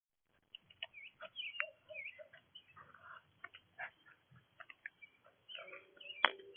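Small songbirds chirping at a backyard bird feeder in short quick calls, with scattered light clicks and one sharp knock near the end.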